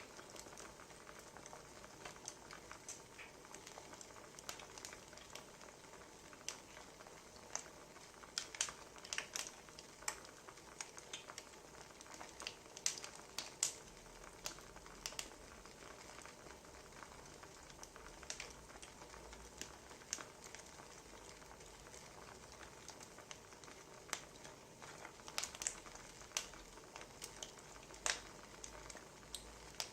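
Wood fire crackling: irregular sharp pops and snaps over a soft steady hiss, with bunches of louder pops about a third of the way in and again near the end.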